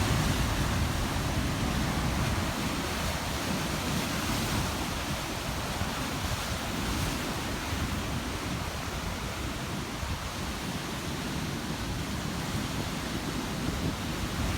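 Ocean waves breaking and churning on a rocky shore at high tide, a continuous wash of surf with a deep low rumble, slightly fuller in the first couple of seconds and easing a little after.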